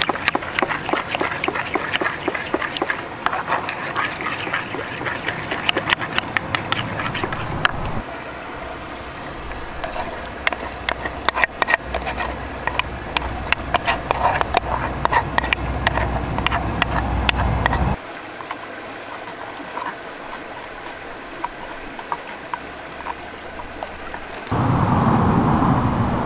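Ducks quacking in a dense, busy chorus. About eight seconds in, the sound cuts abruptly to other outdoor sounds with scattered clicks, and near the end it cuts again to a louder, steady rushing noise.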